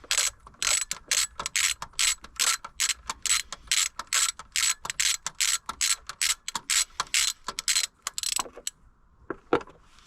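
Ratchet wrench clicking steadily, about three clicks a second, as a bolt is backed out. It stops about eight seconds in, followed by a couple of knocks.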